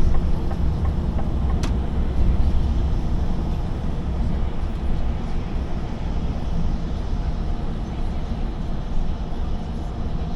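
Lorry engine and road noise while driving: a steady low rumble with a single sharp click about two seconds in.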